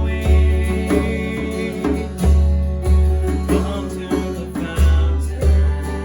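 Worship band music: guitar over a strong, recurring bass beat, with some singing.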